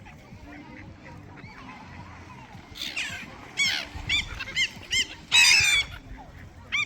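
Birds being fed calling: after a few quiet seconds, a quick run of short calls, each rising and falling in pitch, with several calling at once in a loud burst near the end.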